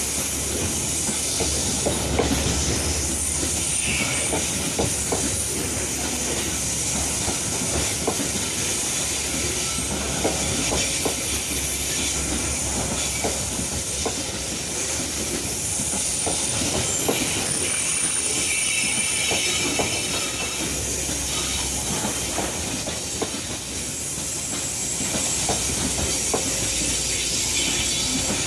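Freight train of open-top steel wagons rolling past close by: a steady rumble of wheels on rail with scattered clicks and clacks, and a high, thin wheel squeal coming and going over a hiss.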